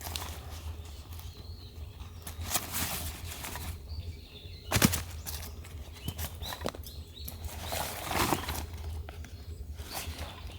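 Intermittent rustling and handling noises with a few sharp knocks, the loudest about five seconds in, over a steady low hum.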